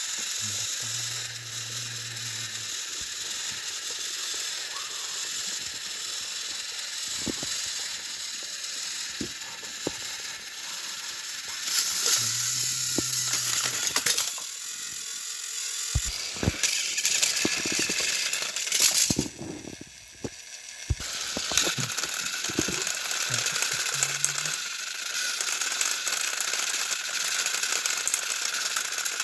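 Battery-powered motorized toy train engines running, their small electric motors and plastic gearboxes whirring and ratcheting with many small clicks, working under load as they push against each other.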